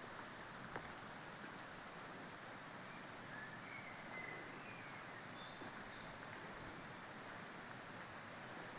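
Faint rural outdoor ambience: a steady hiss of open air, with a few short high bird chirps about halfway through.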